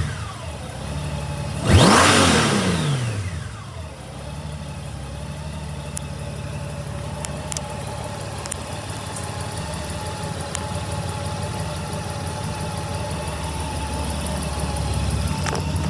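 Honda GL1800 Gold Wing's flat-six engine blipped once about two seconds in, the revs climbing sharply and falling back over a second or two, then idling steadily.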